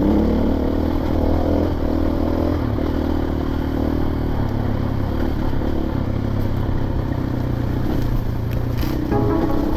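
Dirt bike engine running while being ridden, its note holding fairly steady with small shifts in pitch.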